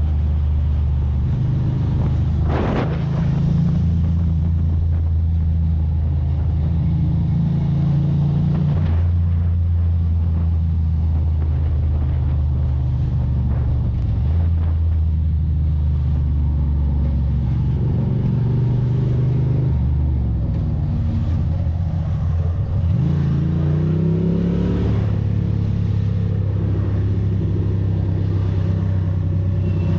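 Ducati Monster's L-twin engine under way. It runs at steady revs and shifts pitch in steps between gears, with a rising rev of acceleration about three-quarters of the way through.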